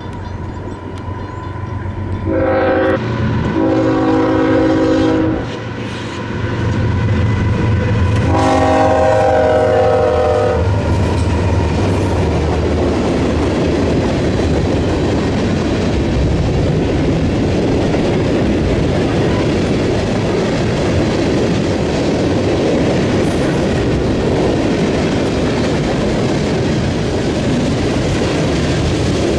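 Freight train's diesel locomotive sounding its horn, a short blast then a long one, and another long blast a few seconds later, over the engine's rumble. The cars then roll through with steady clickety-clack over the rail joints and diamond crossing.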